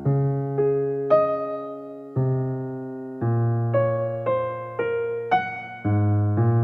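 Background music: a slow piano or electric-piano melody, one note or chord struck about every half second to a second, each left to ring and fade.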